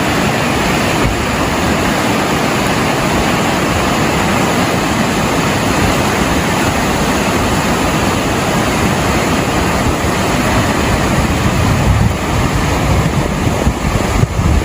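Loud, steady rush of storm floodwater and rain, with uneven low rumbling buffets from about twelve seconds in.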